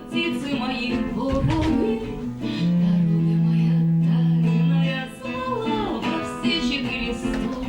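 Instrumental string music: a long held low note about a third of the way in, with sliding, wavering higher notes and plucked strings around it.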